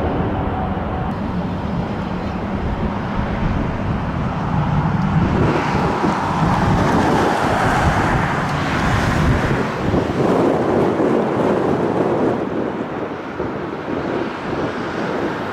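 Boeing 777-200LR jet engines at takeoff thrust: a loud, steady rush of engine and air noise that swells in the middle. A low rumble weakens near the end.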